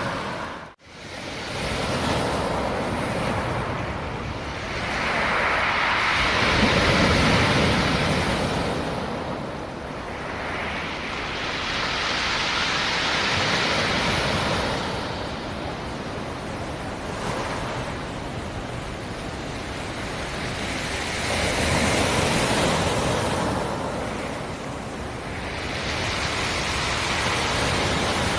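Sea surf on the shore: waves breaking and washing back in a steady rush that swells and fades every five to eight seconds. A brief dropout comes just under a second in.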